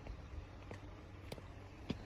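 Faint, short soft knocks, four in two seconds, over a low steady rumble.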